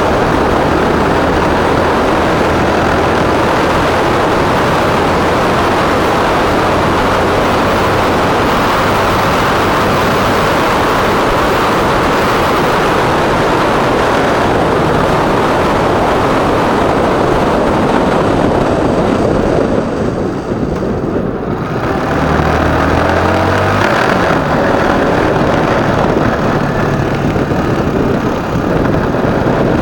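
Motorcycle being ridden through city traffic: engine running under loud, steady road and air rush. The noise eases briefly about two-thirds of the way through, then picks up again.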